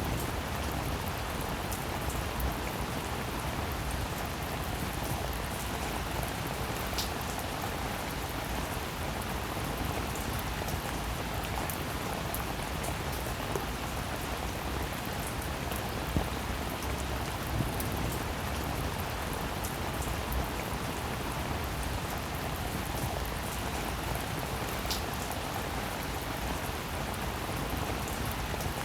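Steady rain falling, an even hiss with scattered individual drops tapping now and then.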